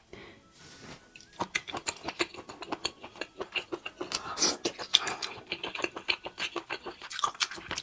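Close-up wet chewing and lip-smacking of a small, springy abalone eaten whole: rapid, irregular sticky clicks and smacks that start about a second and a half in.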